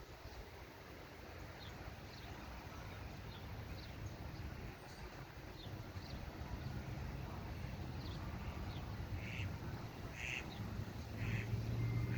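Bird calls: scattered short high chirps, then three or four stronger short calls about a second apart near the end, over a steady low rumble.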